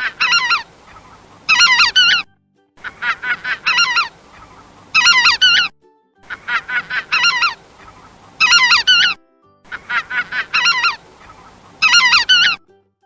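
Goose honking: a run of quick short honks followed by louder, longer honks, the same few seconds of calling repeated four times over.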